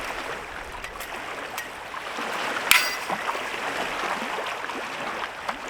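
Steady rushing of running water, with a few light clicks and one sharper click about halfway through.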